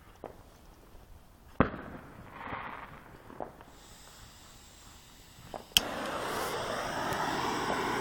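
Bermuda Triangle consumer firework cake going off: scattered sharp bangs and pops, the loudest about a second and a half in and again near six seconds, then a steady rushing hiss.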